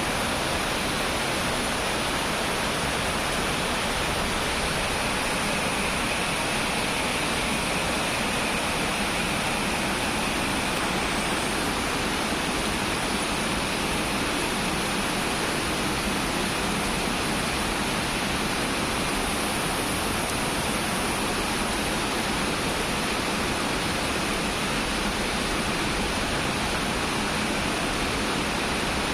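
Heavy rain falling steadily: an even, unbroken rushing noise with no thunderclaps.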